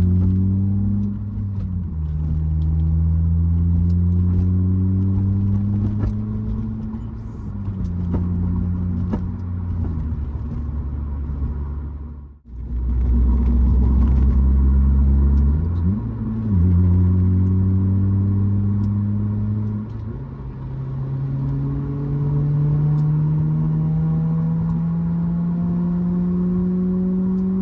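Acura RSX Type-S's K20Z1 four-cylinder running through an Invidia N1 cat-back exhaust while cruising. The engine note holds steady for stretches, then drops and rises with throttle and gear changes, and climbs slowly in pitch near the end. There is a brief dropout about halfway.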